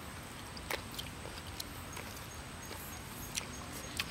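Quiet mouth sounds of people eating cooked snails: chewing and sucking, with a handful of small, scattered clicks and smacks.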